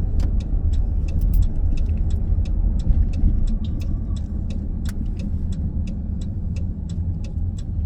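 Low, steady road and engine rumble heard from inside a minivan's cabin while driving, with a string of sharp, faint clicks running through it.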